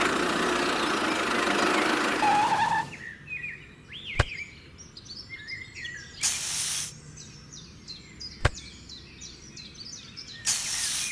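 A loud, dense sound that cuts off about three seconds in, giving way to birds chirping steadily. Two sharp clicks and two short bursts of hiss come through the birdsong.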